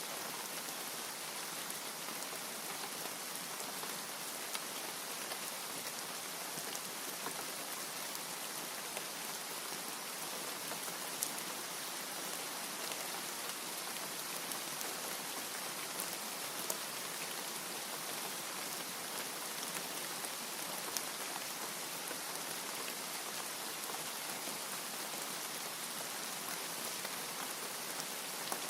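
Steady heavy rain falling, a dense even hiss with occasional sharper drop ticks.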